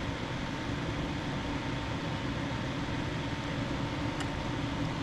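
A steady, low mechanical hum with hiss, with one faint tick near the end.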